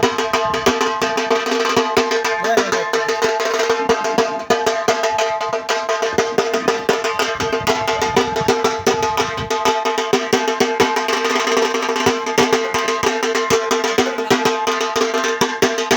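Indian band-party music: fast, dense drumming under long, steady held notes from the melody instruments.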